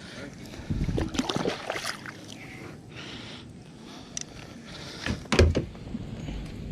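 Knocks and rustling of gear being handled in a kayak, irregular and scattered, with one heavier thump about five and a half seconds in.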